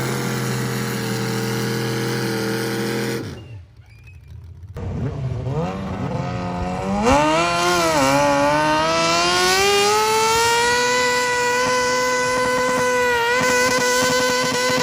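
Engines of modified garden tractor pullers: a steady engine note cuts off abruptly about three seconds in. Then another engine revs up, its pitch climbing over a few seconds and holding high at full throttle, with a couple of brief dips.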